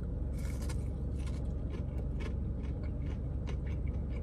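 Crunching and chewing of a breaded buffalo chicken tender close to the microphone. A crunchy bite comes about half a second in, followed by irregular crunches as it is chewed, over a steady low rumble inside the car.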